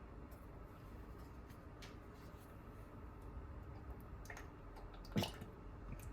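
Quiet kitchen handling sounds while baking: scattered small clicks and light wet squishing, with one louder knock a little after five seconds, over a low steady room hum.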